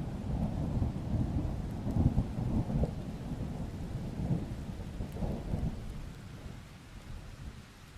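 Rolling thunder rumbling over steady rain. The rumble is loudest about two seconds in, then fades away over the last few seconds, leaving the rain hiss.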